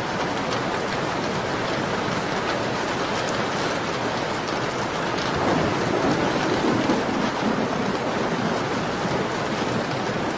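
Steady rain on a window, a dense even hiss with scattered drop ticks, swelling louder for about two seconds in the middle.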